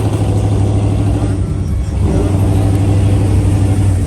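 Motor vehicle engine running steadily, a continuous low-pitched drone with a little rise and fall in pitch.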